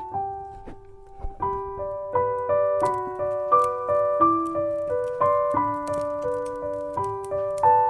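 Piano music: a steady stream of struck notes, about three a second, with a short lull about a second in.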